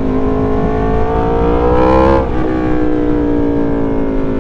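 Aprilia Tuono V4's 1077 cc V4 engine under throttle. The revs climb for about two seconds, drop sharply at an upshift, then hold fairly steady.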